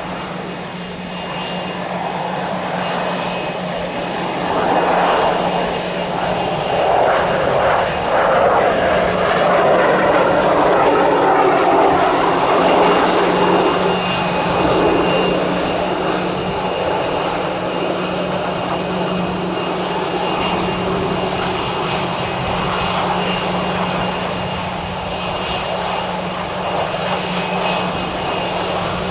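Pilatus PC-12 single-engine turboprop landing: its engine and propeller noise swells as it passes, loudest a little before halfway, then eases to a steady drone as it rolls out.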